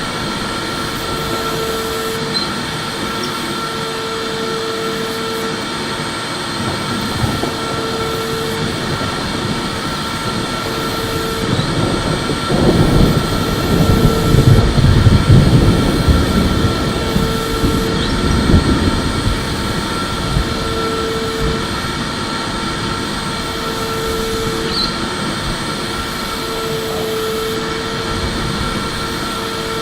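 Electric vacuum cleaner running steadily, a constant motor whine over a rush of air. For several seconds in the middle it grows louder and rougher in its low rumble, as if the airflow changes, then settles back to the steady drone.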